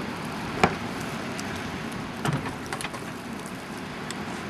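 Footsteps crunching in packed snow, two sharper crunches about half a second and two and a quarter seconds in, with smaller ticks, over a steady hiss of wind.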